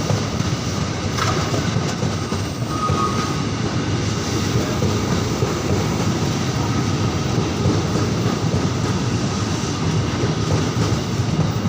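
Train rolling past on the rails: a steady, even rumble of wheels on track.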